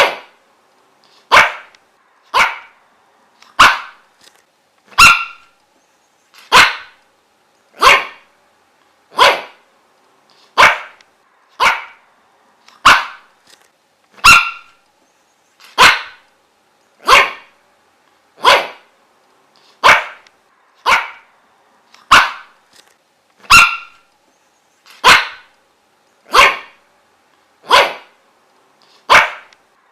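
A dog barking single short barks at a steady pace, roughly one every second and a half, with no pause.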